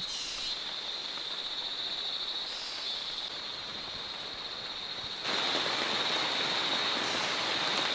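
Rain falling steadily in rainforest, with a constant high chirring of insects over it. The rain gets abruptly louder about five seconds in.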